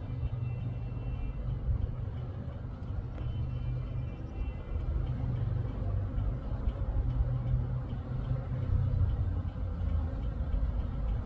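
Honeybees buzzing in numbers at a busy hive, a steady low hum.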